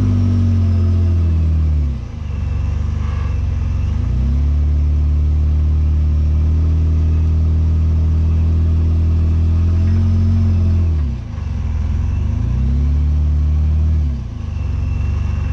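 Jeep Wrangler JK's engine held at high revs under load as it strains against a rock ledge, the revs dipping and picking back up four times. The Jeep stays hung on the ledge, just short of getting over.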